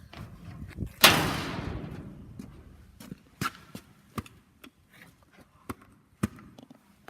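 A single loud slam about a second in, dying away over about a second, followed by scattered light knocks and clicks.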